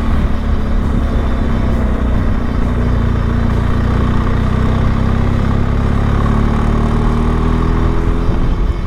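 Motorcycle engine running steadily at low revs, its note climbing a little in the second half and changing near the end.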